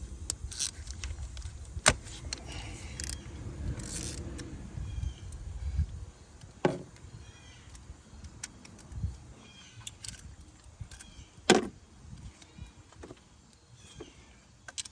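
Metal tools and engine parts clicking and clinking under the hood of a car, with three sharper knocks. A low rumble runs under the first six seconds.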